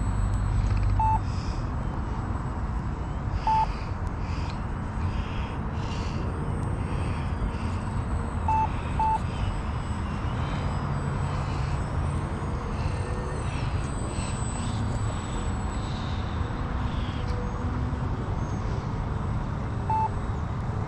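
Wind rumbling on the microphone over the faint, wavering whine of the Turbo Timber Evolution's electric motor as the RC plane flies overhead. A few short, single-pitch electronic beeps sound about a second in, around three and a half seconds, twice near nine seconds, and once near the end.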